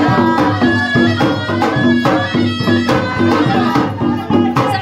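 Traditional folk music: a steady drum beat under a held, reedy wind-instrument melody.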